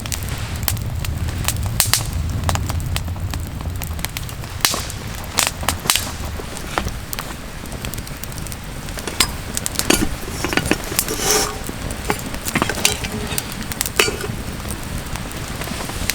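Wood campfire crackling, with irregular sharp pops over a low rumble and a denser run of pops and knocks about ten to eleven seconds in.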